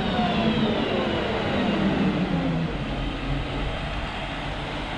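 Vehicle engine and road noise while driving, the engine's pitch falling over the first three seconds as it slows, then running steadily.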